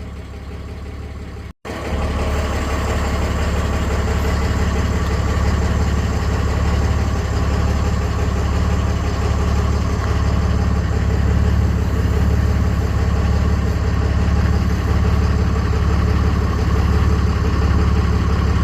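A motor-driven machine running steadily with a strong low hum and a constant, unchanging drone. It is broken by a brief cut about a second and a half in, after which it is louder.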